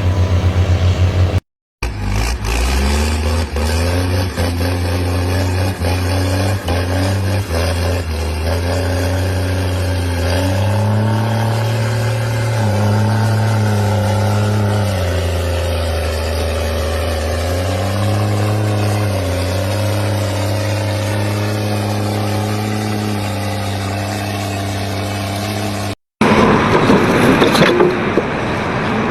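Big Bud 525-50 tractor's large engine running hard, its pitch stepping and gliding up and down as it revs. It cuts off abruptly near the end, and a different, hissing noise takes over.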